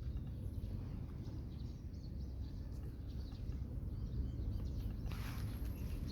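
Outdoor ambience: a steady low rumble with faint bird chirps, then a burst of rustling about five seconds in.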